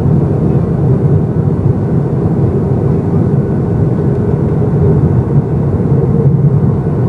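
Cabin noise inside a Boeing 737-800 in flight during the descent: the steady rumble of its CFM56 engines and the airflow past the fuselage, with a faint steady hum over it.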